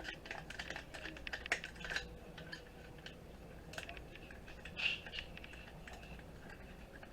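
Small irregular clicks and taps of hand tools and metal parts against a computer circuit board as threaded fasteners are worked loose, with a sharper click about a second and a half in and another near five seconds.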